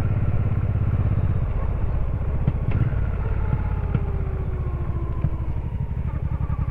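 Honda Shadow VT1100C's V-twin engine running as the motorcycle rides a broken, cracked road. The engine note sags about a second and a half in as it eases off, and a few sharp knocks come from the bumpy surface.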